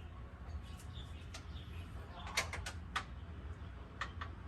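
Light, scattered clicks and taps of a small plastic washing-machine lid safety switch being handled, with a quick cluster of sharp clicks a little past the middle.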